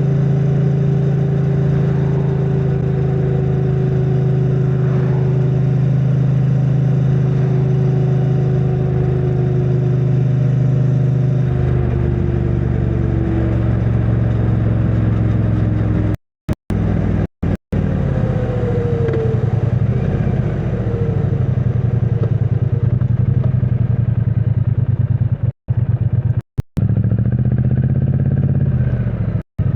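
2022 Triumph Bonneville T100's 900 cc parallel-twin engine running through its stock exhaust on the move, a steady note that changes and turns rougher about twelve seconds in. The sound cuts out briefly a few times in the second half.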